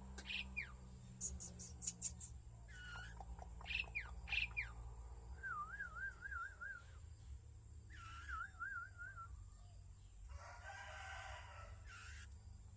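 Several birds chirping and calling: short sharp chirps, then twice a wavering, warbled whistle, and near the end a rooster crowing briefly.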